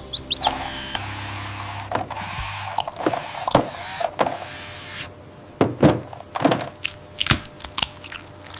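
Toy excavator's small electric motor hums steadily for about two seconds, then a series of separate knocks and clicks. A duckling peeps briefly at the start.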